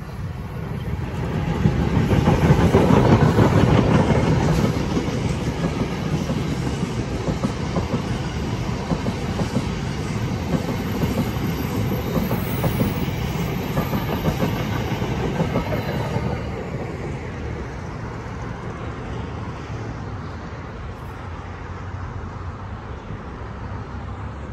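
NJ Transit commuter train passing close by, loudest as the locomotive goes past about two to four seconds in. The coaches then roll by with the clatter of wheels on the rails, and the sound fades after about sixteen seconds as the train moves off.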